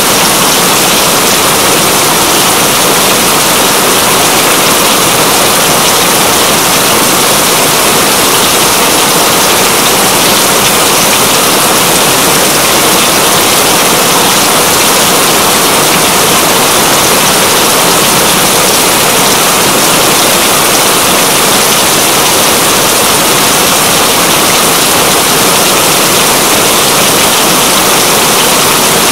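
Steady, heavy rain falling, an even dense hiss that does not change.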